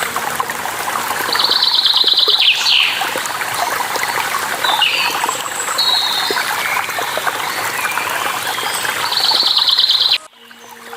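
Waterfall water rushing steadily, with small birds singing over it: two rapid buzzy trills, a falling whistle and several short chirps. Near the end the sound cuts out abruptly and fades back in.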